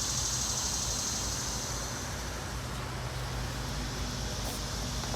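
Steady low rumble of distant road traffic, with a high hiss that fades about two seconds in.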